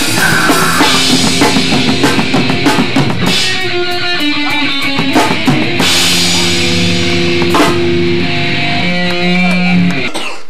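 Hardcore rock band playing loud: drum kit and electric guitar, ending on held notes that cut off suddenly near the end.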